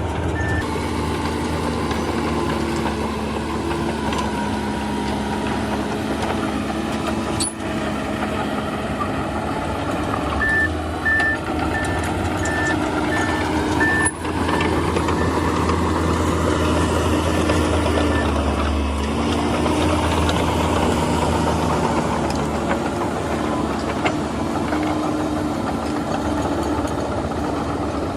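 Heavy diesel earthmoving machinery running steadily, with a reversing alarm beeping evenly for a moment at the start and again for several seconds from about the middle. The engine note dips and recovers near the end, and there are two sharp knocks.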